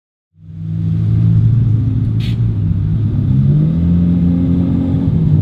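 A car engine running with a low, steady note that steps up in pitch a little around three seconds in as it is revved. A short hiss is heard about two seconds in.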